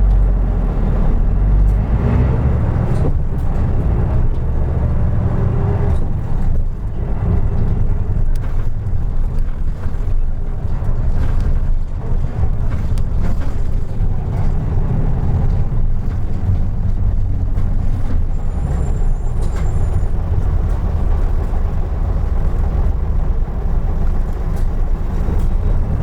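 Isuzu Erga Mio city bus (KK-LR233J1) running along the road, heard inside the cabin: a steady low diesel engine and road rumble with occasional small clicks and rattles.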